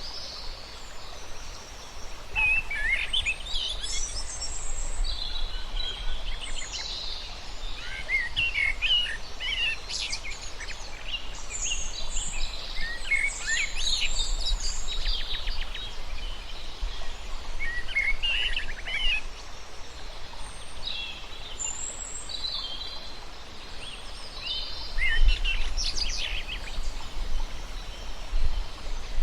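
Several birds chirping and calling, many short trills and chirps overlapping, over a faint low rumble.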